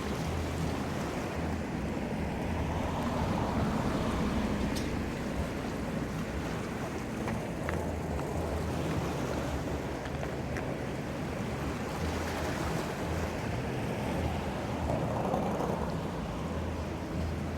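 Ocean surf washing in steadily, with swells of louder wash about three seconds in and again near the end. Wind buffets the microphone, and a low steady hum runs underneath.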